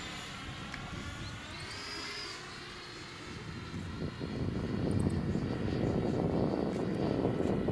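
Radio-controlled F-104 Starfighter model jet in flight, its high motor whine fading as it flies away. About four seconds in, a louder low rushing noise rises and holds.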